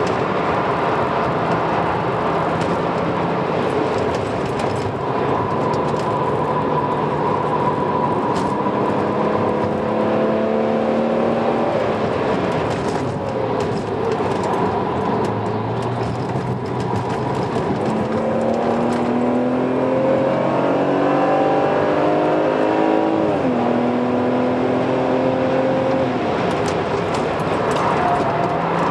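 Car engine heard from inside the cabin, revving up under acceleration. It climbs in pitch, drops sharply at an upshift a little past the middle, and climbs again, over steady tyre and road noise.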